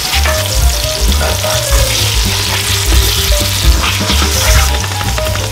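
Breaded chicken cutlets frying in oil in a cast-iron skillet: a steady sizzle, with a metal spatula working under them in the pan. Background music with a pulsing bass beat and a melody plays over it.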